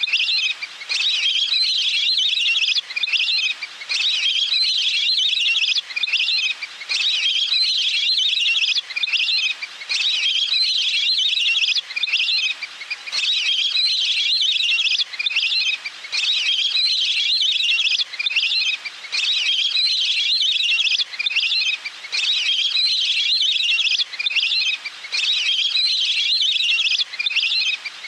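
Looped recording of a wild waterbird's call played as a hunting lure: rapid, high trilling phrases of a second or two each, broken by short pauses and repeated over and over.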